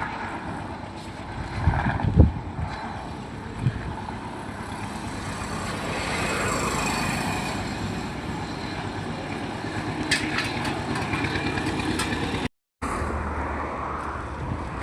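Steady motor-vehicle noise with a few sharp knocks about two seconds in and again near four seconds, and a cluster of clicks around ten seconds; the noise swells and fades once in the middle.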